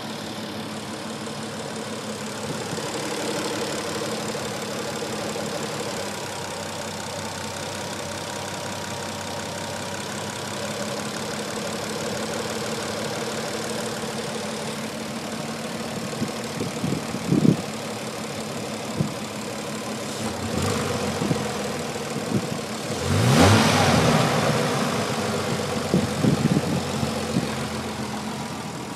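Nissan 300ZX's V6 engine idling with a lifter tick that persists after an oil change with a quart of ATF added, quieter than it was but still audible. A few louder knocks and a brief surge come in the last third.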